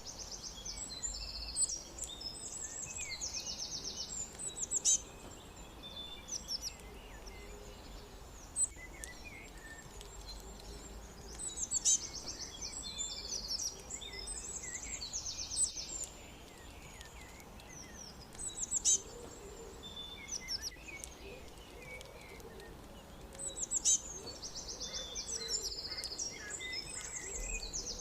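Songbirds chirping: a rapid, high trilled song phrase comes three times, about every twelve seconds, with short sharp chirps scattered between, over a faint steady background hiss.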